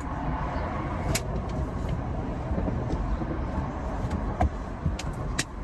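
Road traffic noise: a steady vehicle rumble with a few light clicks.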